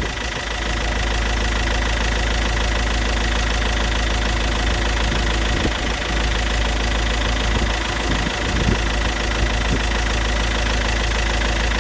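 Iveco Daily diesel engine idling steadily with a newly fitted camshaft position sensor.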